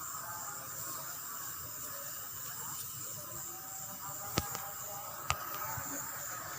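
Steady background hiss with faint, indistinct voices, broken by two sharp clicks about a second apart a little past the middle.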